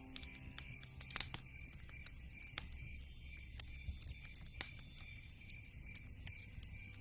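Campfire crackling, with irregular sharp pops and clicks over a low rumble. A steady, evenly pulsed high trill runs under it.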